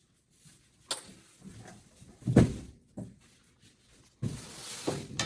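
Parts and tools being handled while the truck's front-end trim comes apart: a sharp click, a dull thump about two and a half seconds in, a few lighter knocks, then scraping and rustling with a knock near the end.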